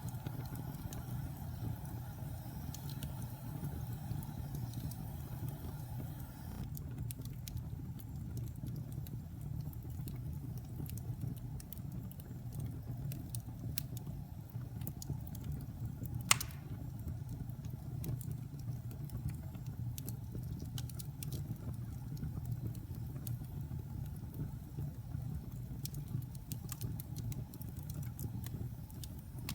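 Wood fire crackling in a fireplace: scattered small pops and snaps over a steady low rumble, with one sharp, loud pop about halfway through.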